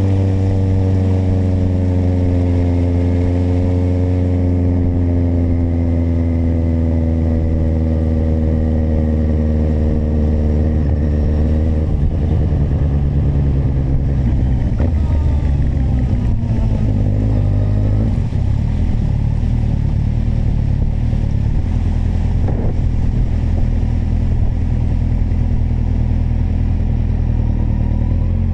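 Kawasaki motorcycle engine running under way: its pitch eases slowly downward through the first dozen seconds, then rises and falls with the throttle, over a steady rush of wind and road noise.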